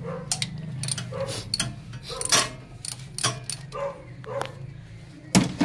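A dog barking several times, short repeated barks, amid sharp clicks and knocks, the loudest near the end, over a steady low hum.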